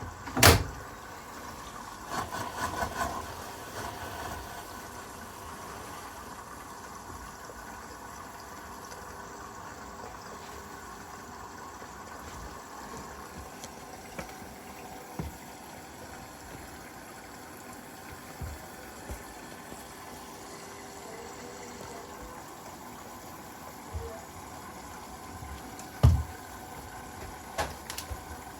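Hoover washing machine at the start of its wash cycle, a steady hum as it fills with water, with a sharp click about half a second in and a few knocks later on.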